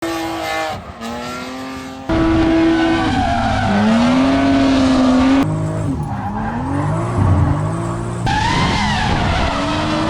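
Drift car engines revving up and down with tyres squealing, in short clips that change abruptly several times.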